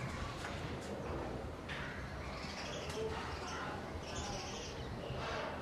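Birds chirping and calling, short scattered chirps starting about two seconds in, over a steady low hum.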